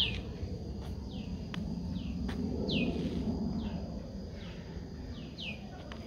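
A songbird repeating a short call that falls in pitch, about one or two calls a second. Under it runs a steady low outdoor noise.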